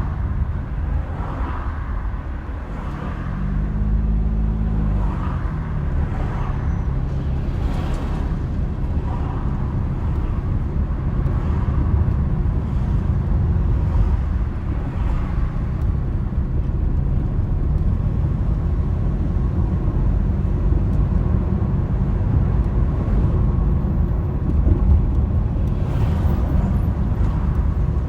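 A car on the move, with a steady low rumble of road and engine noise. About four seconds in, the engine note briefly rises and falls again.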